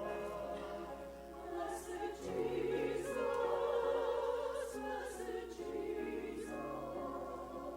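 A choir singing in sustained, held notes, swelling to its loudest about three to four seconds in.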